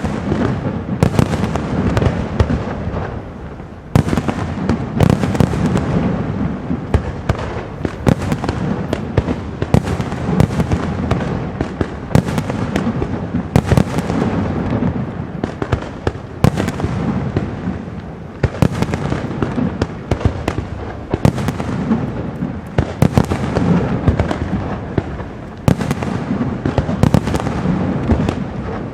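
A castillo aerial fireworks display going at full intensity: shells bursting in quick succession with a sharp bang every half second to a second, over continuous rumbling and crackling.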